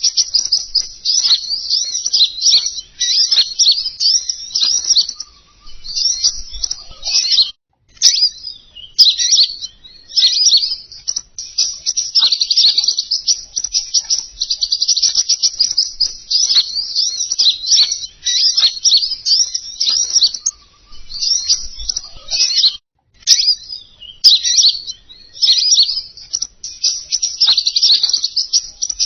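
Bird-lure recording of the songbird called king konin: rapid, high-pitched twittering chirps and trills, almost unbroken, with two short pauses, about seven seconds in and again near twenty-three seconds.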